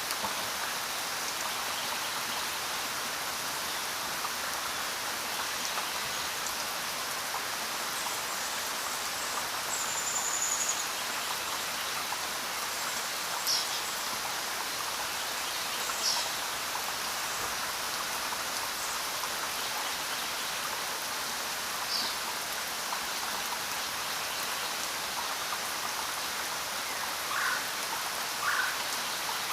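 Steady rainfall, an even hiss of rain with no let-up. A few brief high-pitched blips stand out above it here and there.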